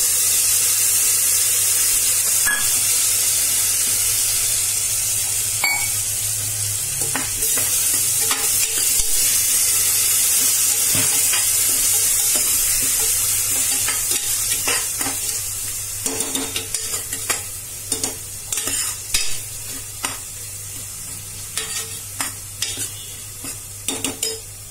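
Potatoes, onions and freshly added ginger-garlic-chilli paste sizzling in hot oil in a steel pressure cooker, stirred by a steel ladle that scrapes and clinks against the pot. The sizzle dies down after about fourteen seconds, leaving mostly the ladle's scrapes and clinks.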